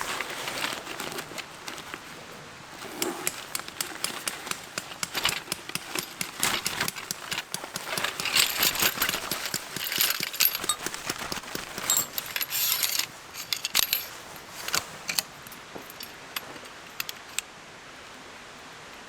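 Small metal pieces clinking and rattling as they are handled, many quick irregular clicks that are busiest in the middle and thin out near the end.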